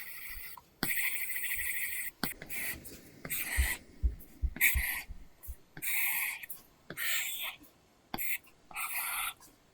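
Apple Pencil drawing on an iPad screen fitted with a paper-texture film: scratchy pen strokes of about half a second to a second each, with sharp taps of the nib between them.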